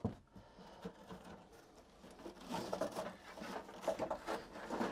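Light clattering and rustling from loose parts and material being handled and pulled at, with scattered ticks at first and a busier run of small clicks in the second half.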